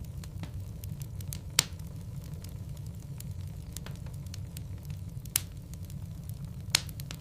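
Wood logs burning in a fireplace: a steady low rumble of flame with scattered light crackles and three sharp pops, about a second and a half in, after about five seconds, and near the end.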